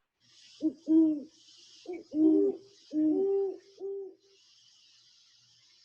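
A pair of great horned owls hooting in a duet: deep hoots at two slightly different pitches, overlapping and answering each other, about seven hoots in all. A faint steady hiss remains after the hooting stops about four seconds in.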